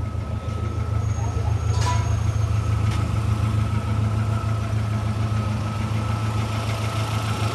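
Chevrolet Zafira engine idling steadily at the exhaust, running evenly with a freshly replaced head gasket. A couple of faint clicks in the first few seconds.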